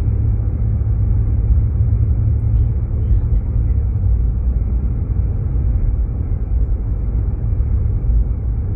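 Steady low road-and-engine rumble of a Jeep Grand Cherokee driving on snowy roads, heard from inside the cabin.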